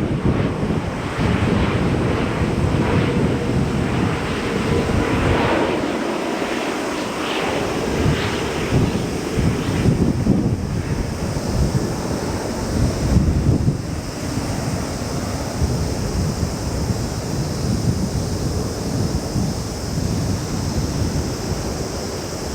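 Wind buffeting the microphone over the low rumble of a jet airliner's engines, with a faint steady whine in the first few seconds.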